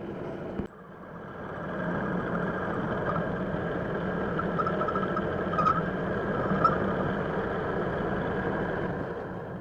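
A motor or engine running steadily, building up about a second in and dying away near the end.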